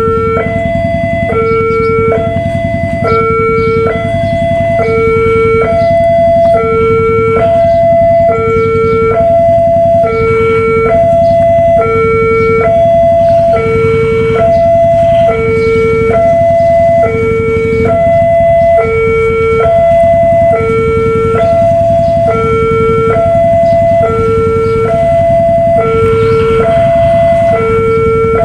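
Railway level-crossing warning alarm sounding a steady electronic two-tone alternation, low and high notes about once a second, warning that a train is approaching. A steady low rumble runs underneath.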